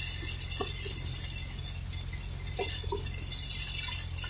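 Heavy rain pelting a vehicle's roof: a steady hiss with scattered drop ticks over a low steady hum.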